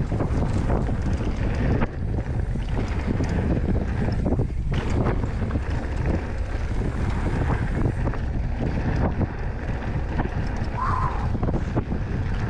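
Wind buffeting the camera microphone at speed on a mountain bike descent, over the rumble of tyres on dirt and rock and frequent clicks and rattles from the bike. A short squeak comes near the end.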